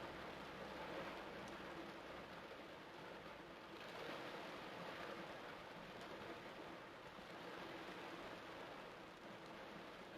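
Torrential rain pouring down in a steady, even hiss, swelling a little about four seconds in.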